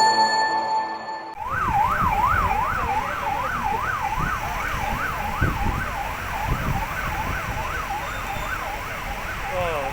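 Vehicle siren in a fast yelp, sweeping up and down about three times a second, starting a little over a second in, over steady background noise.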